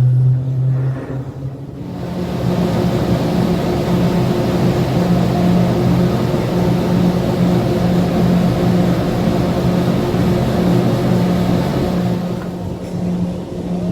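Garaventa 80-person aerial tramway in motion: a steady, loud mechanical hum with a low tone that steps up in pitch and level about two seconds in, then holds steady.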